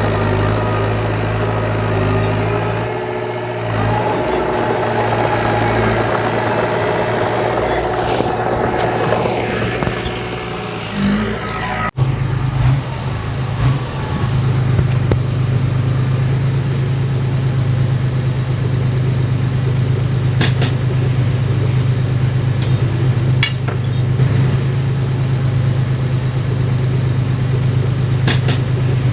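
Diesel engines of heavy earthmoving machinery running steadily. About twelve seconds in the sound cuts sharply to a lower, even engine hum with a few light clicks.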